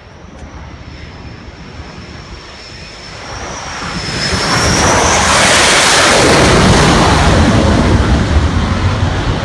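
Jet aircraft noise building from a thin high whine to a loud rushing roar about halfway through, the whine rising in pitch as the noise swells.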